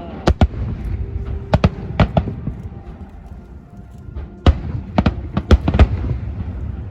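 Aerial fireworks bursting: clusters of sharp bangs, a pair or several close together every second or so, over a continuous low rumble of further bursts.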